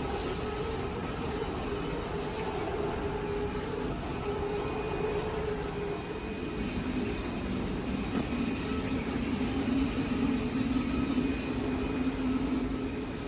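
Steady mechanical hum with a few held tones that drift slightly in pitch.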